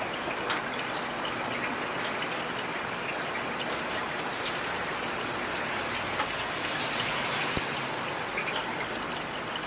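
Steady rain falling, a continuous hiss with individual drops ticking sharply here and there.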